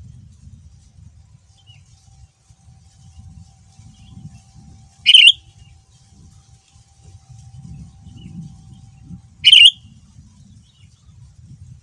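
Sooty-headed bulbul (kutilang) calling: two loud, short calls about four seconds apart, with a few faint chirps between them.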